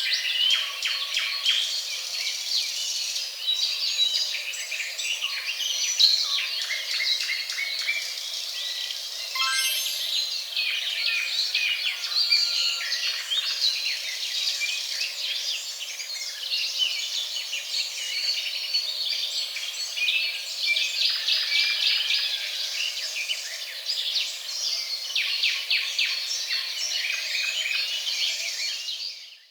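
A chorus of many birds chirping and calling together, a dense run of short calls that fades out at the very end.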